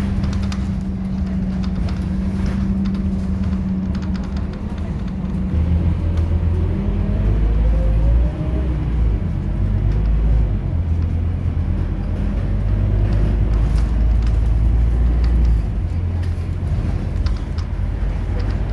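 Scania K230UB city bus's diesel engine: a steady low hum at first, then the engine works harder from about six seconds in, with rising tones as it gathers speed, and eases off again near the end.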